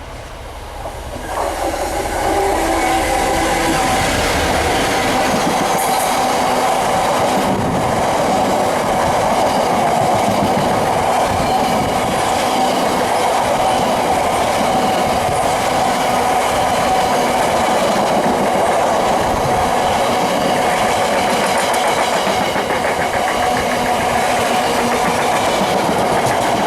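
A train passing close by on the main line, its wheels running over the rails in a steady rumble and clatter. It builds up over the first two seconds and then holds steady for over twenty seconds, with a steady tone from the wheels and rails.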